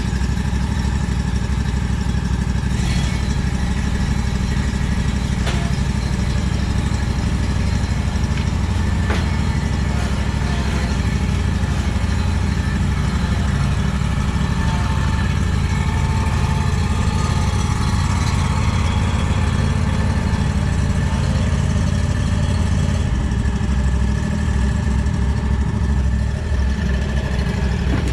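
An engine idling steadily, with a few light clicks in the first third.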